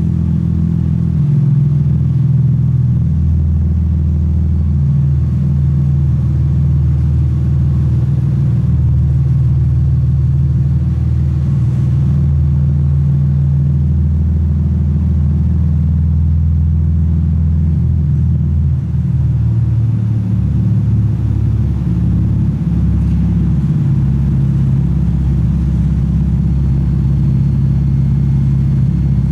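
Naturally aspirated Toyota Supra Mk4's 2JZ-GE inline-six idling steadily at its exhaust, an even low rumble.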